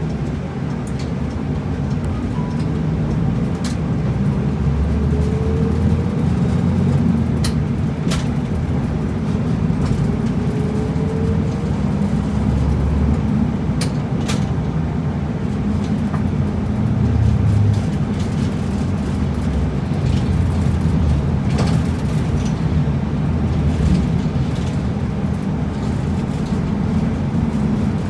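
Route bus driving along, heard from inside the cabin: a steady low diesel engine and road rumble, with occasional small rattles or clicks.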